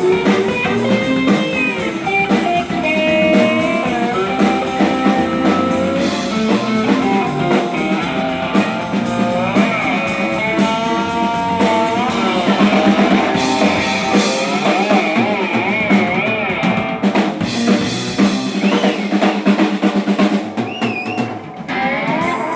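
A live rock band playing: guitar lines with bending, gliding notes over a drum kit.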